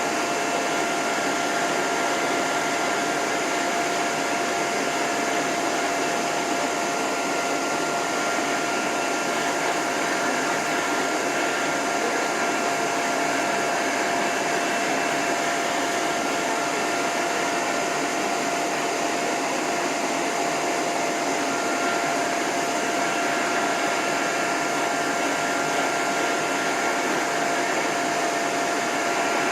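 Hose-type dog dryer blowing steadily on its lowest setting with the end nozzle off, a whooshing rush of air with a steady whine from its motor.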